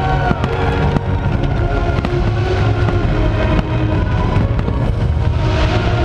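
Fireworks bursting with sharp bangs over loud music from the show's sound system, which has a heavy bass and held notes.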